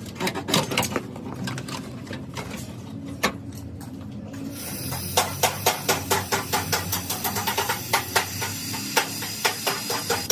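A run of sharp clicks and taps over a steady low hum, the clicks sparse at first and coming faster and more evenly, a few a second, from about halfway.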